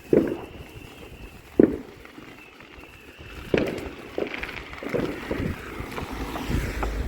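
Irregular dull thumps, two sharp ones in the first two seconds and a cluster of smaller ones later, over wind noise on the microphone.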